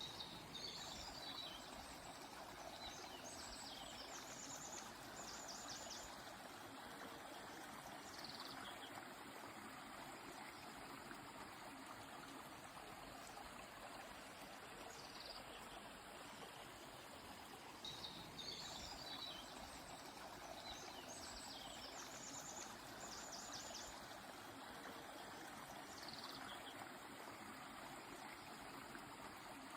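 A river flowing with a steady rush, while small birds sing over it in short high phrases every few seconds: quick trills and brief falling notes.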